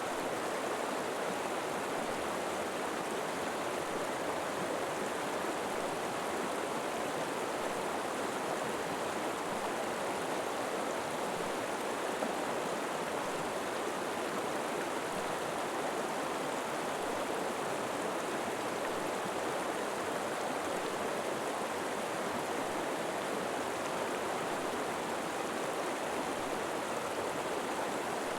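River water flowing steadily over rocks, an even rushing with no breaks or separate splashes.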